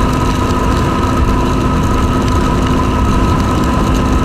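Yamaha WR250R's 250cc single-cylinder engine running at a steady cruising speed, with a constant whine and a heavy low rumble of wind and road noise.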